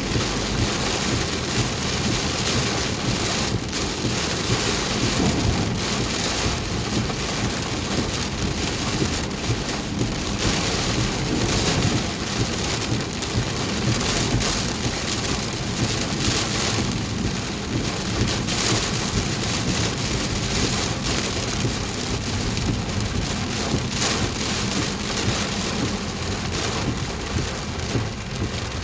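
Heavy rain beating steadily on a car's roof and windshield, heard from inside the car during a downpour.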